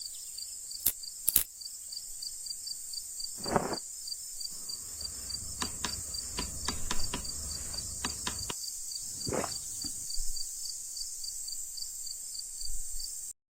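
Crickets chirping in a steady, high-pitched chorus, with a pulse about four times a second running under it. A few sharp clicks and two brief lower sounds, a few seconds in and again near the end, stand out over the chorus.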